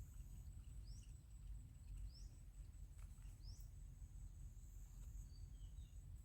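Quiet outdoor ambience with a bird giving three short rising chirps about a second apart, then a few fainter high notes. Under it run a steady high-pitched whine and a low rumble.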